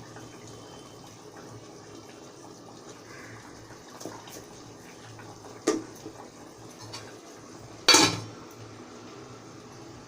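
Metal cooking utensils knocking against a pot a few times, the loudest knock about eight seconds in, over a low steady hiss of the chicken cooking.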